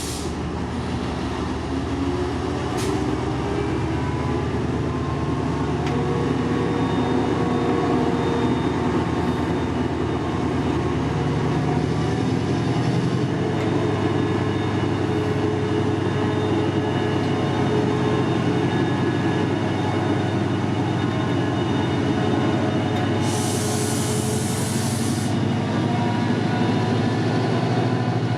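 Class 68 diesel-electric locomotive's engine running steadily, a little louder after the first few seconds. A short burst of air hissing comes near the end.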